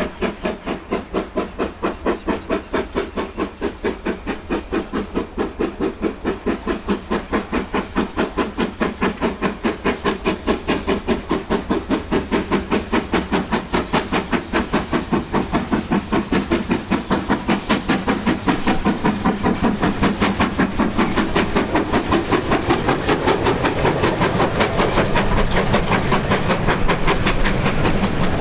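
GWR Manor-class 4-6-0 steam locomotive 7828 working a train, its exhaust beating in a rapid, even rhythm that grows steadily louder as it approaches. A low rumble of the train on the rails rises near the end.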